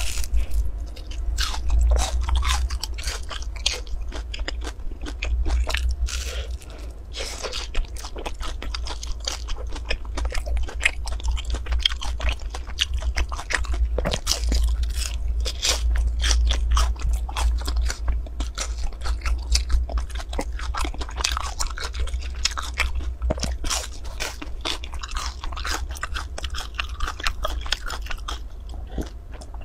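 Mouth biting and chewing a crisp-crusted fried cake: many crisp crunches in quick succession, over a steady low hum.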